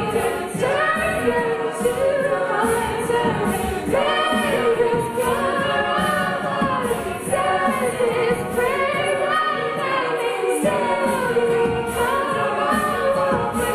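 Women's a cappella group singing in harmony, with vocal percussion ticking out a steady beat about twice a second.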